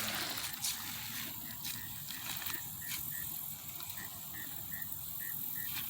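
Creek-side ambience: a steady hiss of running water. From about a second and a half in, a regular series of short high chirps repeats about three times a second.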